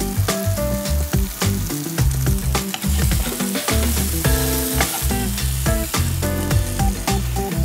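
Sliced bell peppers and onion sizzling as they sauté in a frying pan, stirred with a wooden spatula. Background music with held bass notes and a beat plays underneath.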